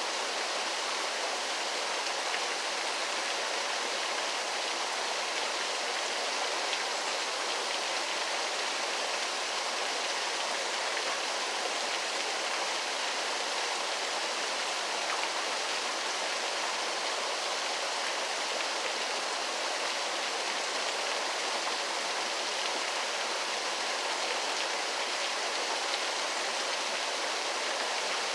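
Waterfall: a steady rush of falling water, even and unchanging, with most of its sound in the middle and high range and little low rumble.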